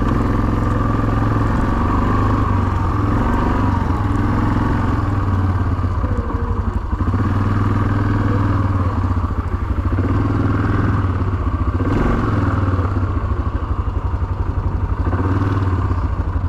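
An engine running steadily at low speed, its note easing up and down a little every couple of seconds.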